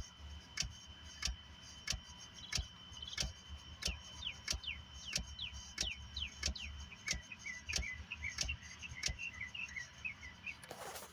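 Steady, regular clicking from the car with the key removed, about one and a half clicks a second, of a cause the owner does not know. Birds chirp outside over the middle and later part.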